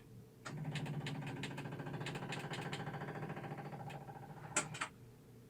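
Kohler Command V-twin engine turning over on its electric starter for about four seconds without catching, then stopping with two sharp clicks.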